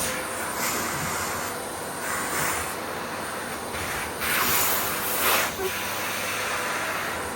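Miele vacuum cleaner running with a steady hissing suction, surging louder and brighter twice about four and five seconds in.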